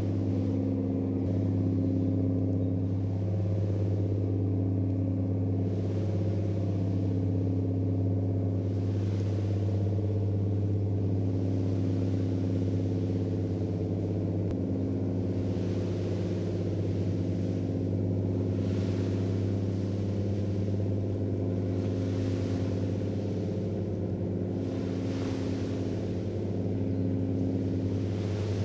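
Ship's diesel engines running steadily: a deep, constant hum with a higher tone that swells and fades every couple of seconds, and a faint recurring hiss above it.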